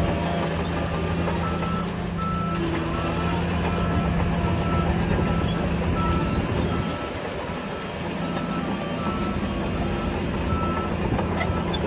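Heavy diesel machine's backup alarm beeping at a steady pace, about three beeps every two seconds, over the engine running. The beeps start about a second and a half in and stop near the end.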